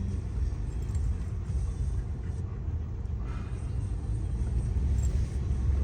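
Steady low rumble of a pickup truck driving, heard from inside the cab.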